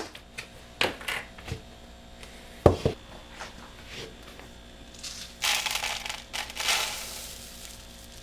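Instant oats being readied and poured into a bowl on a kitchen scale: a few sharp knocks and clicks of handling the container, then about five seconds in a rustling pour of dry oats lasting a second or two.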